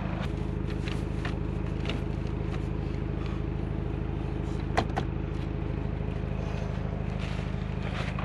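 An engine idling steadily, with light clatter of gear being handled and one sharp knock a little under five seconds in.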